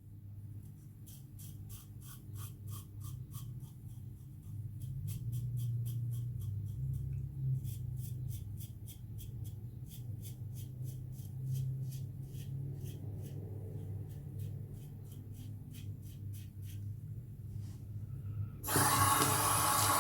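Gillette Black Beauty adjustable safety razor scraping through lather and stubble in quick short strokes, several a second, with a brief pause near the start. Near the end a water tap is turned on and runs.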